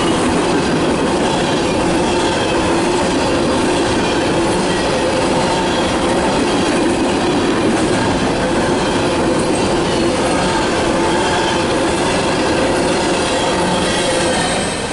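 Empty CSX open-top coal hopper cars rolling past close by, a steady, loud rumble of steel wheels on rail with a constant ringing tone running through it.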